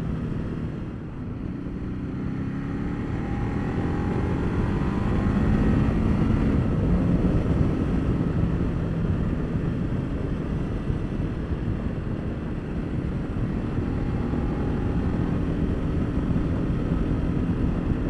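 Ducati Multistrada 1200's L-twin engine pulling under way, its revs climbing over the first few seconds and again later on, with wind rush over the rider's microphone.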